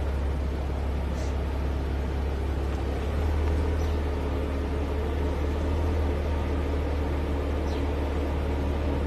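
Maserati Levante SUV's engine pulling under load as the car crawls up a steep dirt slope with its wheels cross-axled. A steady low drone that grows a little louder about three seconds in.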